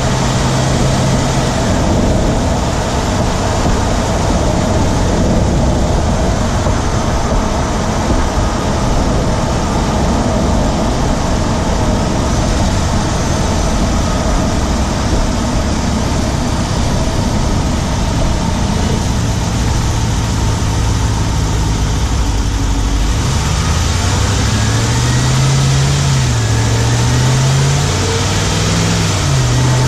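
Engine-bay sound of a 2017 Ram 1500's Hemi V8 running while driving, with a rapid ticking from the driver's side over the engine noise. The owner wonders whether it is the known Hemi tick or something else. Near the end the engine pitch rises and falls several times as the revs change.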